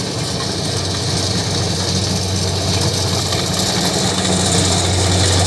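Rice harvester's engine running steadily: a constant low hum with a steady hiss of machinery above it, growing slightly louder near the end.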